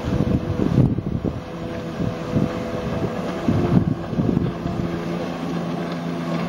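Jet ski engine running, its pitch shifting up and down, with wind buffeting the microphone.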